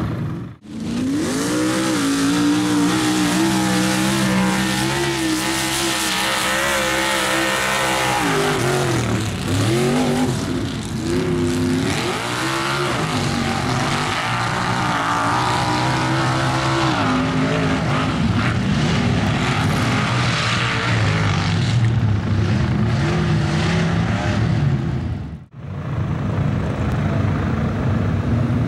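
Mud truck's engine revving hard, its pitch repeatedly climbing and dropping, over a dense rushing haze. The sound cuts out sharply twice, about half a second in and near the end.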